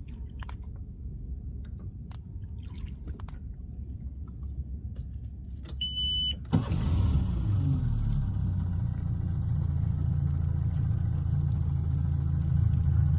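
A low rumble with scattered small clicks, then a short electronic beep and an engine starting about six and a half seconds in, its revs dropping and settling into a steady idle.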